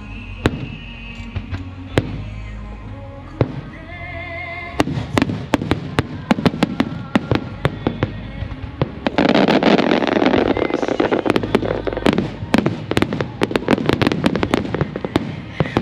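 Aerial fireworks bursting over music from loudspeakers: a few single bangs at first, then from about five seconds in a dense rapid run of sharp bangs and crackles, with a loud sustained stretch of burst noise about halfway through.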